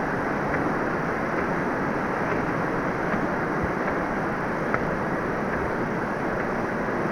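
Waterfall: the steady rush of falling water, unchanging throughout, with one faint click a little after the middle.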